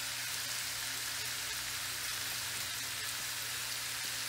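Chicken breasts and green beans sizzling steadily in bacon grease in a frying pan; the sizzle stops abruptly at the end.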